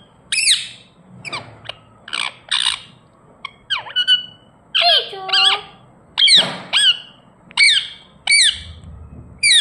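Indian ringneck parrot (rose-ringed parakeet) giving a rapid series of short, high calls, each bending in pitch, coming in quick groups of two or three.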